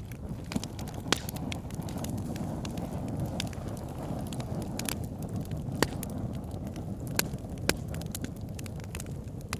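Wood fire burning in a fireplace: a steady low rumble of flames with irregular crackles and sharp pops. The loudest snaps come about a second in and again near six and seven and a half seconds.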